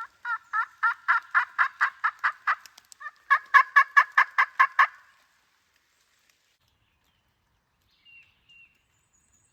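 Two runs of rapid hen-turkey yelps from a hunter's turkey call: about a dozen notes, a short pause, then about nine quicker ones. Two faint high chirps follow near the end.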